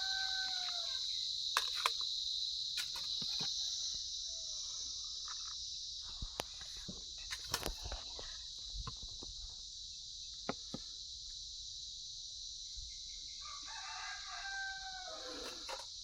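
A rooster crows twice, once at the start and again near the end, over a steady high-pitched chorus of crickets. Short, sharp clicks are scattered in between.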